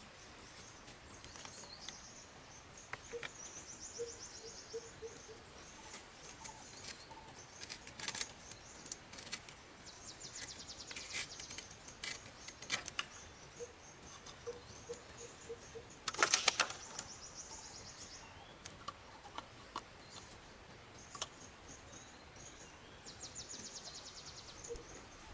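Forest ambience: repeated high chirping trills of birds, a short run of low evenly spaced calls that returns three times, and scattered light clicks, with one louder rustling clatter about two-thirds of the way through.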